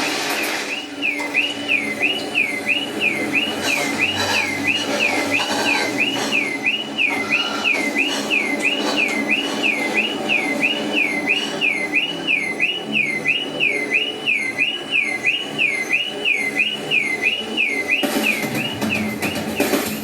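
An electronic siren, its tone dipping and rising again about one and a half times a second, over background music with drums.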